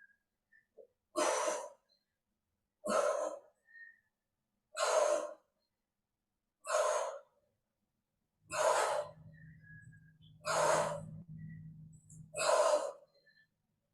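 A woman's sharp, breathy exhalations in time with crunches, seven in a row, about one every two seconds. A faint low hum joins in for a few seconds near the end.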